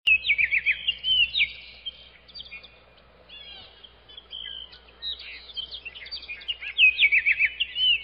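Songbirds chirping and trilling, several quick calls overlapping. The calls are busy at first, thin out in the middle, and pick up again from about five seconds in.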